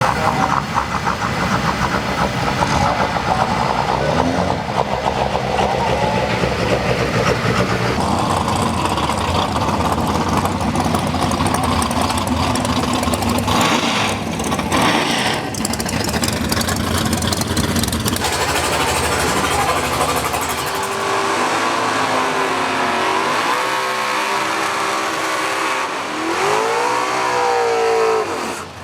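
Race vehicle engines running loud, with the engine pitch swinging up and down as they rev over the last several seconds.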